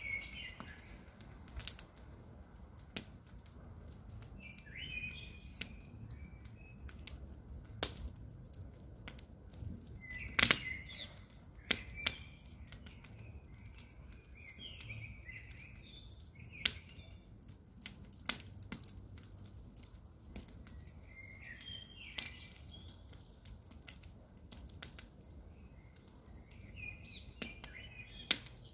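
Wood fire crackling and popping at irregular intervals over a low steady rumble, the sharpest pop about ten seconds in. Birds chirp in short bursts several times.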